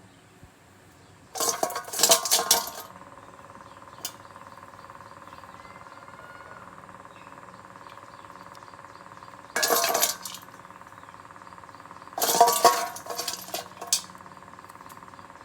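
Metal pieces clinking and clattering in three short bursts, the first about a second in and the last two near the end, over a faint steady hum.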